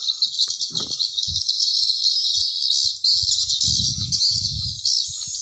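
Swiftlet lure call played through the tweeter speakers of a swiftlet house: a dense, unbroken high chirping twitter. A few low soft thumps come about three and a half to five seconds in.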